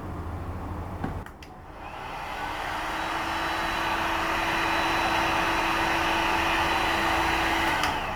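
A small electric motor whirring steadily. It starts up about a second and a half in, builds to full speed, and cuts off just before the end.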